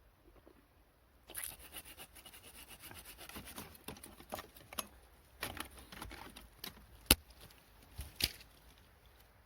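Close rustling and small clicks of things being handled, with a sharp click about seven seconds in and two more near the end.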